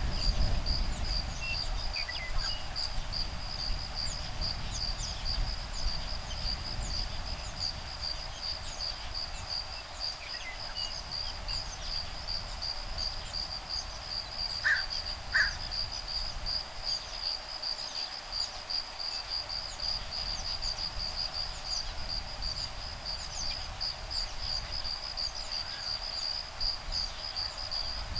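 Insects trilling steadily in a high, fast-pulsing tone, with a few scattered bird calls, two short ones close together about halfway through, over a low wind rumble.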